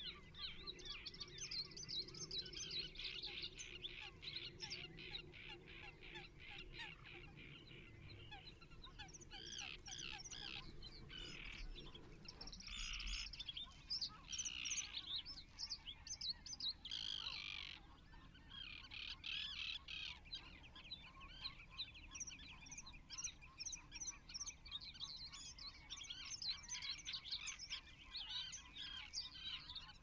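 Many small birds chirping and twittering in quick, overlapping calls, with no let-up.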